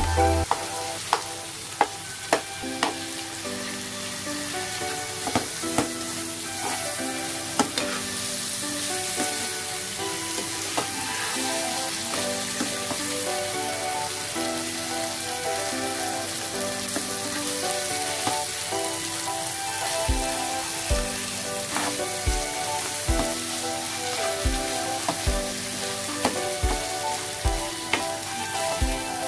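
Onions and boiled potato sizzling in a nonstick pan. A slotted steel spoon scrapes and taps against the pan with scattered sharp clicks as the potatoes are mashed and stirred. Background music plays throughout, and a steady beat comes in about two-thirds of the way through.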